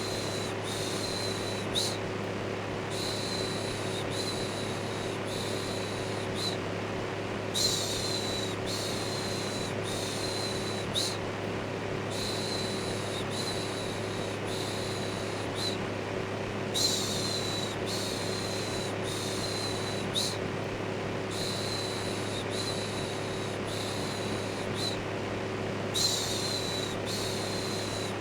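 Steady electric fan noise with a low hum, overlaid with looped human shushing: a run of several 'shhh' sounds about a second each, repeating roughly every nine seconds, as white noise to settle a baby.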